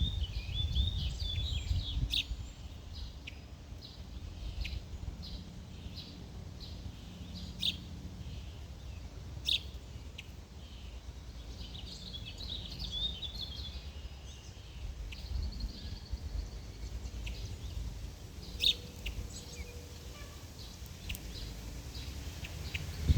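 Small birds chirping and twittering: short, sharp chirps every second or so, with a few quick twittering runs near the start and about halfway through, over a steady low rumble.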